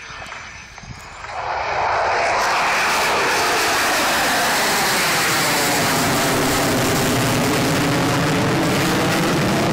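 F-16 fighter jet engine noise, growing loud about a second in and then staying loud, with a falling sweep in pitch as the jet passes the crowd.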